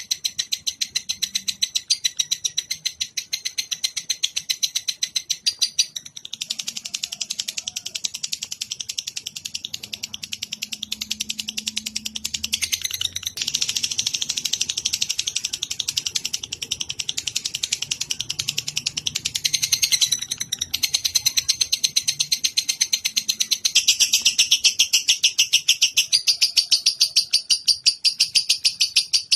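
Lovebird chattering in a long, unbroken run of rapid, high-pitched chirps, about five a second, used as a training song for other songbirds to copy. The run grows louder about six seconds in and again near the end.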